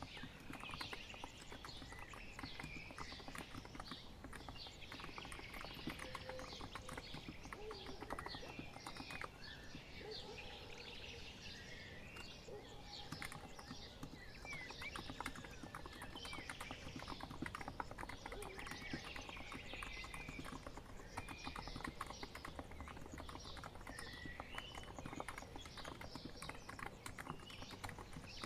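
Continuous typing on a COX Empress electro-capacitive keyboard: many quick, soft key strokes with no pause. Birds chirp and sing in the background.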